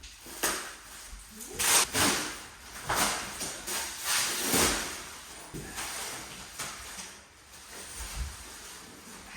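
A handful of short scraping and rustling noises, several in the first five seconds, then quieter.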